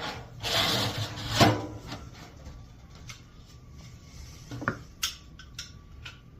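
24-gauge sheet-metal pieces being slid and fitted together: a metal-on-metal scrape about half a second in, a sharp clank a second later, then a few light taps and a short ringing tap near the end.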